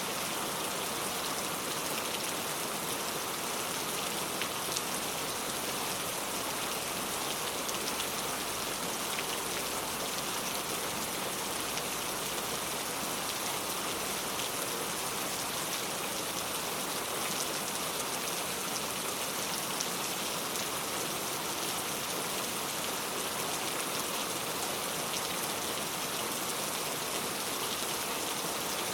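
Heavy rain falling steadily, a dense even hiss of drops with fine patter throughout.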